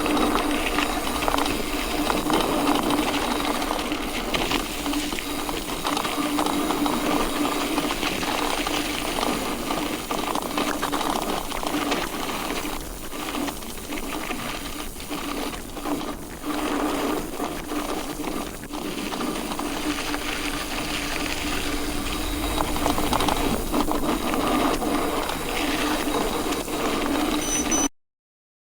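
Mountain bike rolling on a dirt road: knobby tyres crunching over gravel with a steady hum, and the bike's frame and parts rattling and clicking over the bumps. The sound cuts off abruptly to silence near the end.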